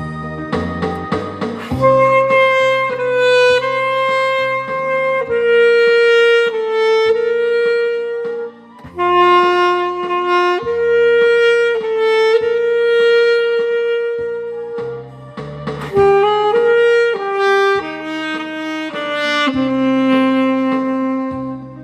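Alto saxophone playing a slow, lyrical melody in long held notes over a lower accompaniment, with a brief breath pause about eight seconds in.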